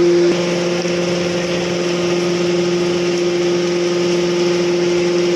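A steady, low-pitched machine hum holding one pitch throughout, a little quieter from about a third of a second in.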